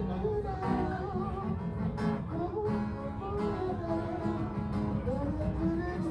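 Live guitar music played through a PA, a melody line over guitar strumming and picking.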